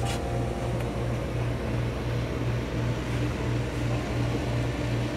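A boat's cabin air conditioner runs with a low, steady hum that throbs evenly about two to three times a second. A sharp click comes right at the start.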